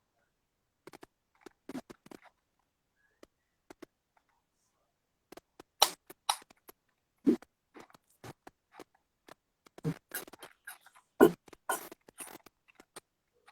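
Scattered short taps, clicks and slaps at irregular intervals, with louder ones about six, seven, ten and eleven seconds in.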